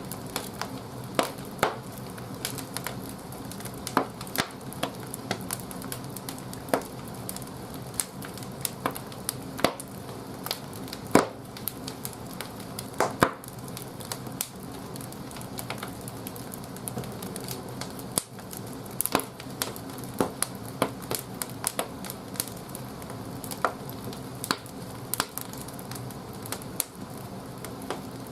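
Firewood crackling as it burns in the firebox of an old wood-fired bathhouse boiler: irregular sharp pops, a few of them loud, over a steady low hum.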